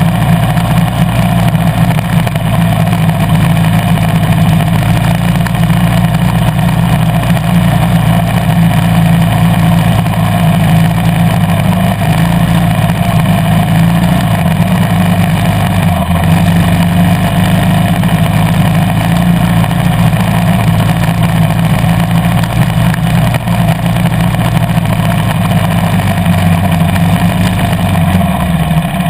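2013 KTM 350 EXC-F dirt bike's single-cylinder four-stroke engine running under steady throttle while riding. The engine note drops as the throttle closes near the end.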